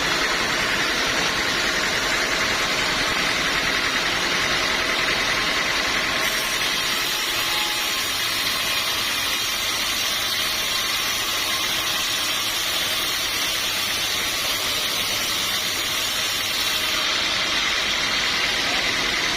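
Sawmill machinery running steadily, a continuous mechanical drone and hiss; from about six seconds in until near the end a brighter, higher hiss and a low hum join it.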